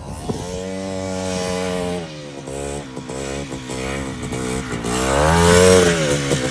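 Quad bike engine revving hard under throttle as it is ridden: the pitch climbs and holds, drops and stutters in the middle, then climbs again to its loudest near the end.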